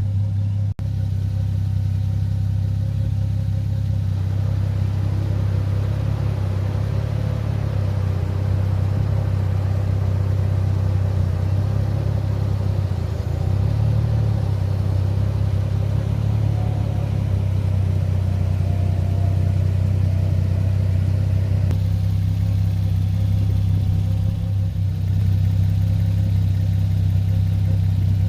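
Toyota Supra Mk3's inline-six engine idling steadily, a low even hum.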